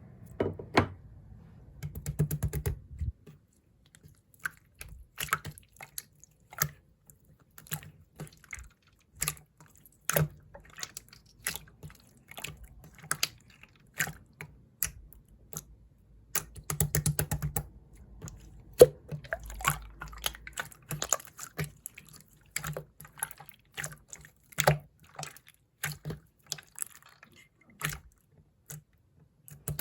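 Clear slime being played with by hand, giving sharp wet clicks and pops, with dense runs of rapid crackling clicks about two seconds in and again around seventeen seconds.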